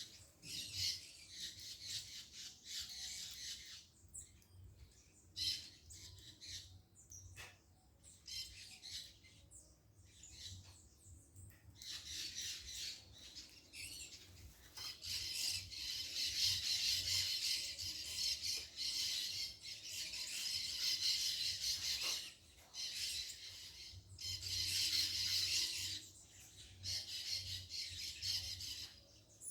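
Birds calling in a stretch of dense, high chattering that comes in bursts, loudest about halfway through and again near the end.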